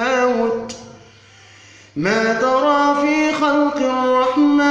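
A man reciting the Quran in a drawn-out melodic chant with no instruments. His held note fades out about a second in, and after a short pause a long sustained melodic phrase begins about two seconds in.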